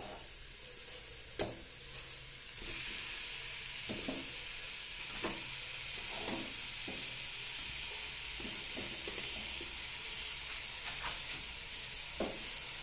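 Pieces of Indian mackerel sizzling in hot onion-tomato masala in a metal pan, the sizzle growing louder about three seconds in. Scattered clinks and scrapes of a slotted metal spoon stirring the fish.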